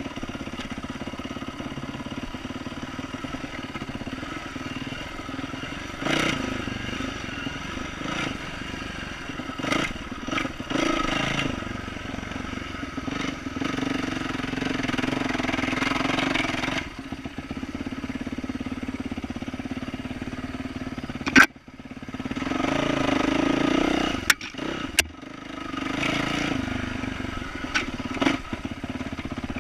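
Yamaha YZ450F's four-stroke single-cylinder engine with an aftermarket exhaust, running on a trail ride and rising and falling with the throttle. About two-thirds of the way through it drops away for a moment with a sharp knock, then revs up again, with a couple more sharp clicks.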